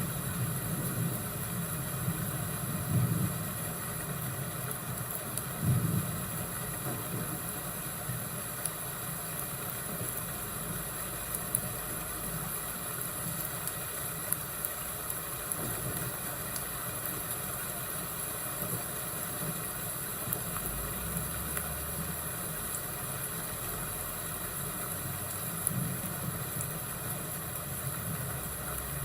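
Thunderstorm and fireplace ambience: a steady hiss with low rumbles that swell a few times, and scattered faint crackles.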